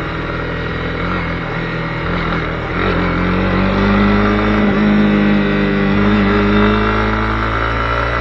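Honda CB250R's single-cylinder engine running under way, heard from the rider's camera. The engine note climbs and gets louder about three seconds in as the bike accelerates, then holds steady.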